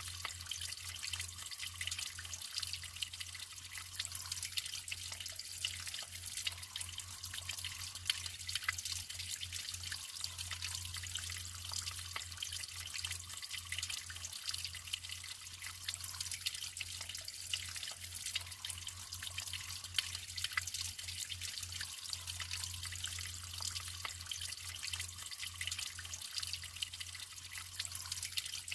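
Natural running water trickling and splashing steadily, with many small drips and droplet clicks, over a faint low steady hum.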